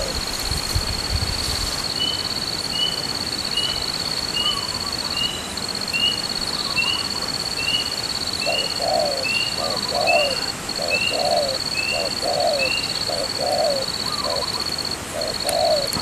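Spotted doves cooing: a run of low, evenly repeated coos through the second half. Another small bird gives a regular series of short chirps, about one and a half a second, through the middle, over a steady high-pitched whine.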